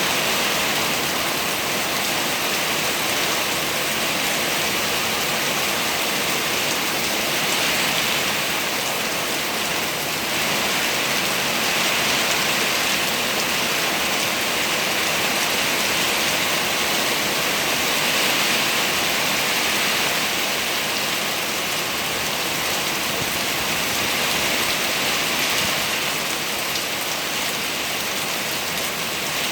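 Heavy rain falling steadily, a dense even hiss of drops on surfaces that swells slightly now and then.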